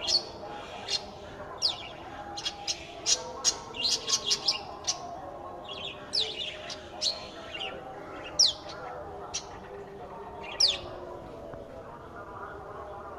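Small bird chirping: short, sharp chirps that slide quickly downward in pitch. They come singly and scattered, with a quick run of them about three to five seconds in.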